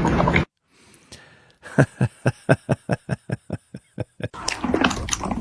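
Cat drinking milk: a quick, even run of short drinking sounds, about five a second, lasting nearly three seconds after a moment of silence.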